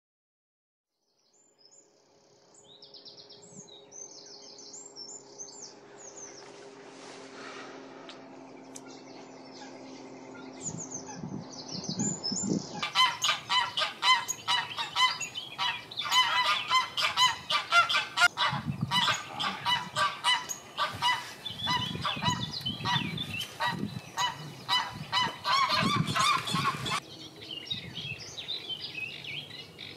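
Wild birds calling: small birds chirping, then from about 13 s a loud, dense run of repeated calls that stops abruptly near the end, after which quieter chirping goes on.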